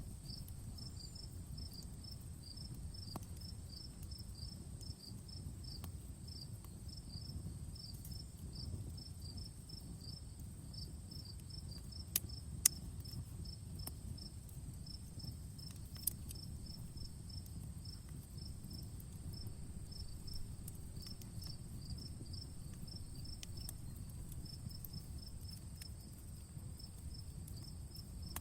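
Outdoor campfire crackling softly over a low rumble, with a few sharp loud pops near the middle, while insects chirp in a rapid, regular pulse of several chirps a second.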